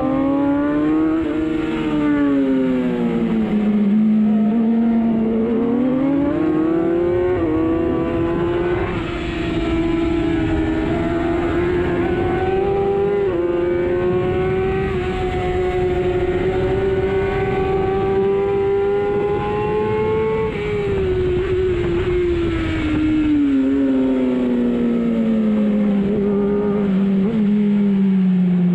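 Superbike engine heard onboard at race pace: revs rise, dip and rise again in the first few seconds, then climb through a long run with short drops at each upshift. About twenty seconds in, the pitch falls steadily as the bike slows on engine braking, over steady wind and road noise.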